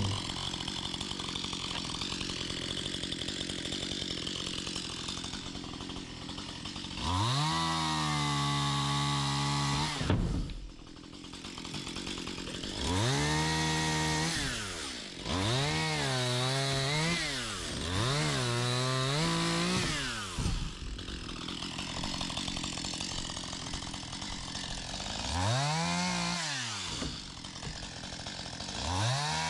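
Chainsaw running, revved up about six times in turn, each rev rising, holding for a second or two and dropping back to idle, as it cuts through tree branches.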